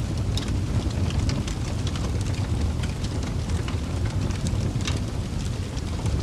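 Wood fire burning in a fireplace: a steady low rumble of flames with frequent small sharp crackles and pops from the burning logs.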